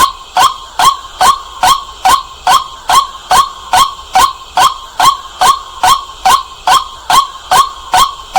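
White-breasted waterhen calling, a loud 'kwak' note repeated very evenly, about two and a half calls a second.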